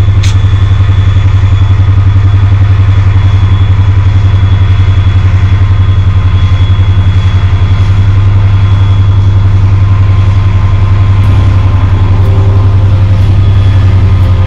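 Diesel freight locomotive hauling a train of tank wagons slowly past, its engine a loud, steady low drone. There is a sharp click just after the start.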